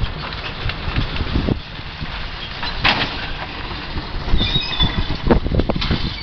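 A motor vehicle running, with repeated low thumps, one sharp crack about three seconds in, and a brief high squeal about four and a half seconds in.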